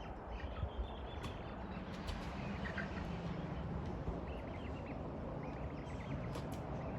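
Backyard chickens making soft clucks and quick trills as they settle on the roost, over a steady background noise.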